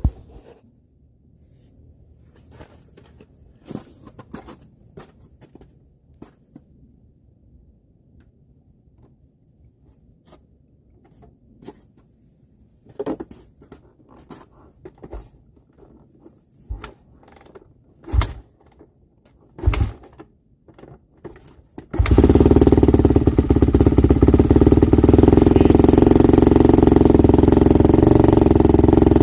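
Kawasaki KX250 dirt bike being kick-started: scattered clunks and three heavy kicks, then after about twenty seconds the four-stroke single-cylinder engine catches and runs steadily. It is the first start after sitting all winter, and it fires on the third kick.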